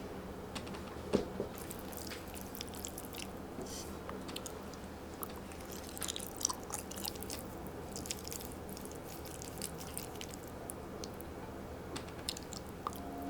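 A person eating at close range: chewing and biting, with scattered small crunchy clicks.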